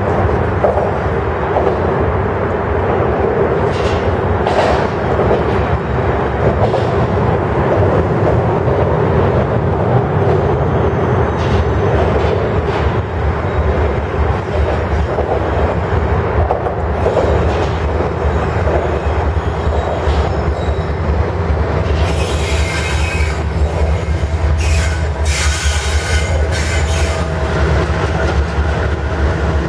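A freight train led by two diesel locomotives approaches and passes close by, with a steady loud rumble throughout. Sharper wheel-on-rail noise and squeal build over the last several seconds as the locomotives go by.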